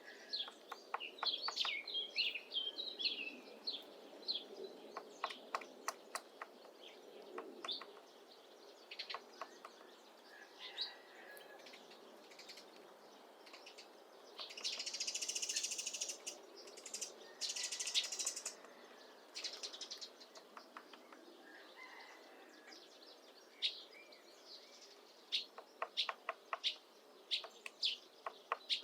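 Syrian woodpecker chiselling a nest hole into apple wood: runs of sharp, unevenly spaced taps, with pauses between bouts. Small birds chirp in the background, and two short bursts of hiss come about halfway through.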